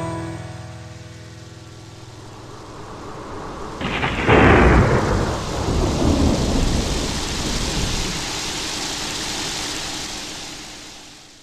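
Rain and thunder sound effects: steady rain hiss with one sharp thunderclap about four seconds in, its rumble rolling on for several seconds, then the rain fades out near the end. The last piano notes ring out and die away at the start.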